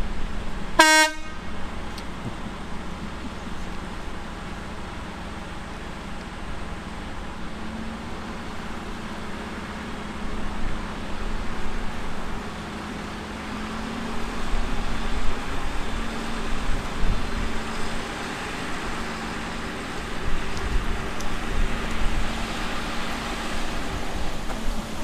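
A short horn toot about a second in, then heavy farm machinery running steadily with a constant diesel engine drone that grows louder in the second half.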